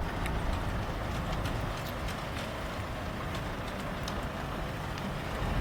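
Construction machinery running with a steady low rumble, with scattered light clicks over it.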